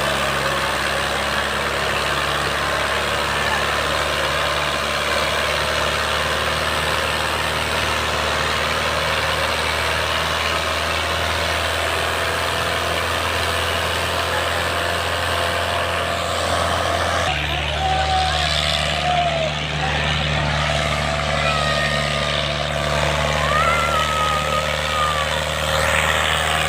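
Fiat 640 tractor's diesel engine running steadily under load while pulling a disc harrow. About two-thirds of the way through, the engine note shifts to a different pitch.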